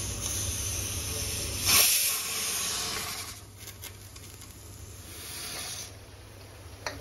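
Tomatoes, onions and fat sizzling in an oiled wok over a gas flame: a steady hiss, with a brief louder burst of hiss about two seconds in, and quieter from about three seconds on.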